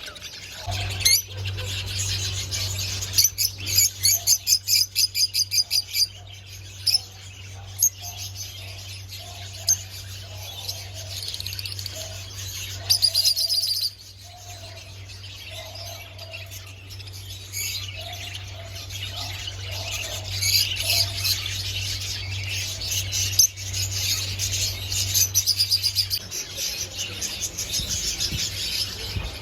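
A roomful of caged lovebirds and parrots chirping and chattering, with rapid trills of high chirps coming in waves, over a steady low hum.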